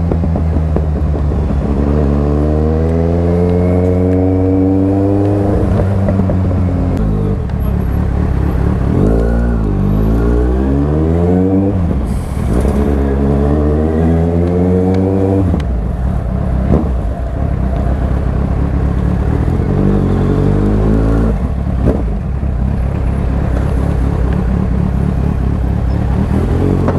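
Motorcycle engine, close to the microphone, pulling away in short bursts through stop-and-go traffic: its pitch rises three times in the first half and drops back between pulls, then it runs lower and steadier, near idle, towards the end.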